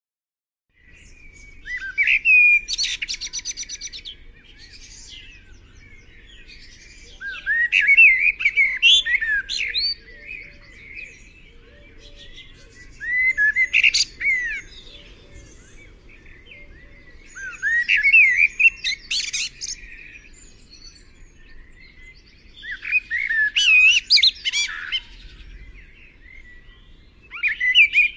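Songbird singing in short phrases of quick chirps and warbles, one phrase about every five seconds.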